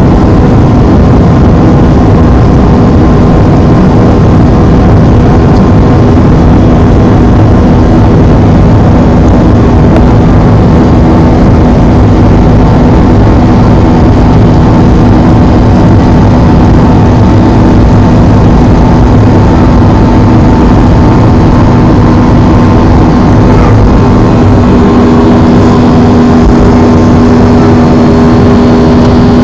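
Jet airliner's engines running during takeoff: a loud, steady drone with a constant low hum and a fainter higher tone. A few more steady tones join near the end.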